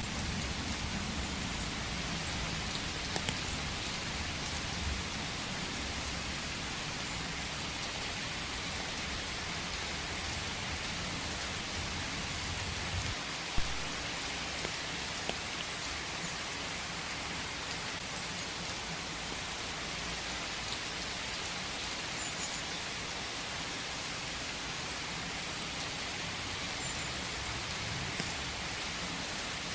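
Steady rain falling, with scattered sharper drop ticks and one louder tick about halfway through. A low rumble underneath eases off at about the same point.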